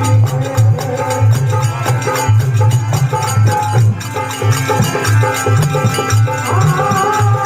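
Rajasthani folk bhajan music: a dholak drum plays a steady, quick rhythm under held melodic notes.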